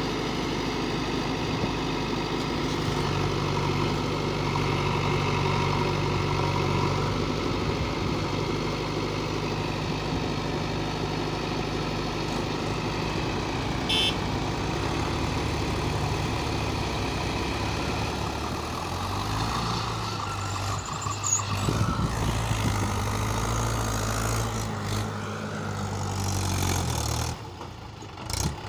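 A heavily loaded diesel tractor's engine running steadily, its note shifting about two-thirds of the way through and dropping away briefly near the end. A short high-pitched sound cuts in about halfway.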